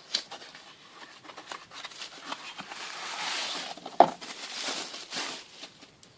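Manual stainless steel salt and pepper mill being handled and turned: a run of small clicks, scrapes and rustling, with one sharp click about four seconds in.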